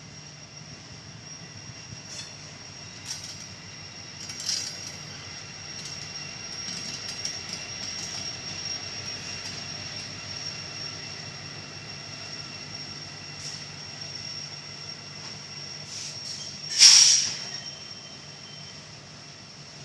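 Train rolling past on the rails with a steady high-pitched wheel squeal, scattered clicks from the wheels, and one loud screech near the end.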